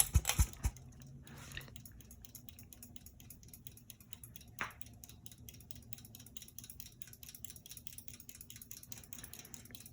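Hampton Bay Landmark III Plus ceiling fan running, a faint steady motor hum with an even rhythmic pulsing. A single short, sharp chirp about halfway through.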